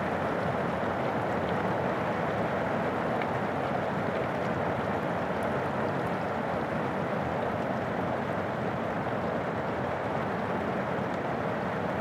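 Steady rain falling on an umbrella and the pavement: an even hiss with a few faint drop ticks.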